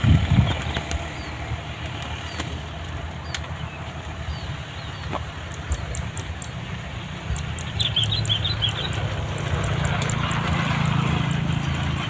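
Young pigeons' wings flapping over a steady low motor hum, with a few short high chirps about eight seconds in.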